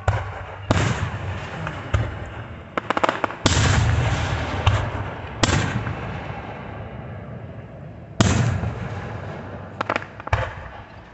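Fireworks going off: about ten loud bangs, each trailing off over a second or two, with quick runs of crackling cracks about three seconds in and again near the end.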